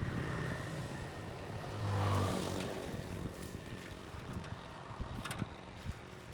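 A motor vehicle passing by on the road, its engine and tyres growing louder to a peak about two seconds in and then fading away.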